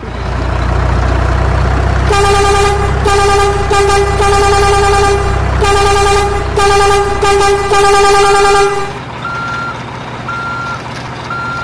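Truck sound: a low engine rumble, then a run of horn blasts from about two seconds in, giving way near the end to reversing beeps about once a second.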